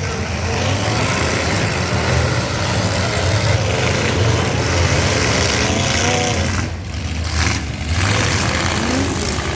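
Engines of several full-size pickup trucks running and revving together in a demolition derby, a loud, dense mechanical din with pitch rising and falling.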